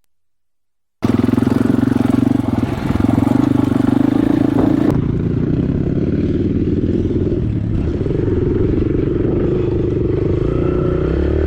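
Dirt bike engine running steadily while riding, with wind buffeting the microphone; it starts abruptly about a second in, after a moment of silence.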